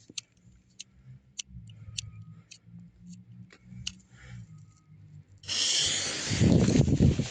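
Firework battery (cake) being set off: a few faint clicks, then about five and a half seconds in a loud hiss, and from about six seconds a rapid run of dull thumps as the tubes start firing.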